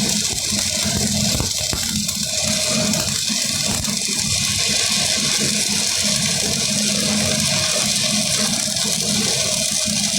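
Arc welding: a steady crackling hiss from the welding arc.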